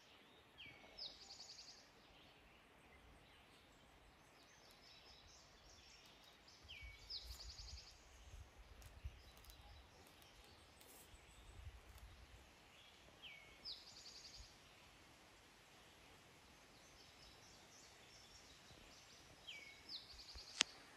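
A songbird sings faintly, repeating the same short song four times about six seconds apart: a low note followed by a higher buzzy trill. A low rumble runs through the middle, and there is one sharp click near the end.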